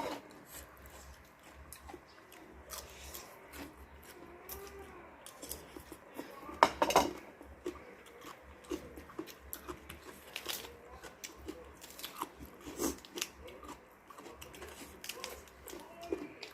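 A person chewing and biting food close to the microphone, with many scattered crunching clicks and one louder crunch cluster about seven seconds in.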